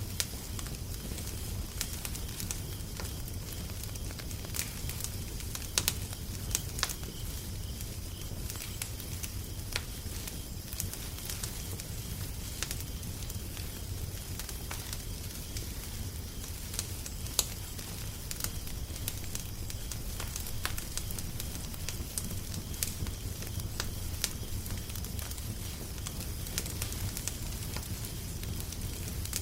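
Wood fire crackling: frequent sharp irregular pops and snaps over a steady low rumble and hiss.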